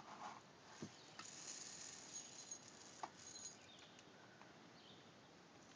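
Near silence, with a few faint, short clicks and a light patter.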